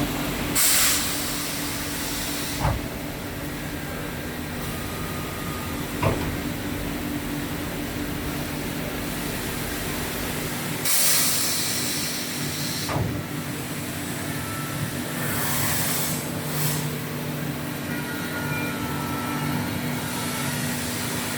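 5-axis CNC woodworking router running with a steady hum, broken by several short bursts of air hiss and a few sharp knocks.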